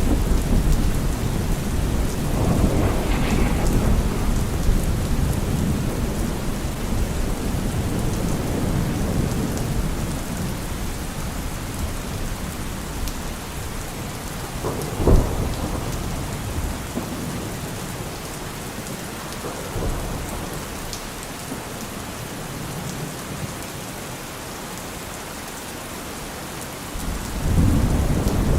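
Steady rain with thunder: a long low rumble that fades over the first half, a single sharp crack about halfway through, and a fresh rumble rising near the end.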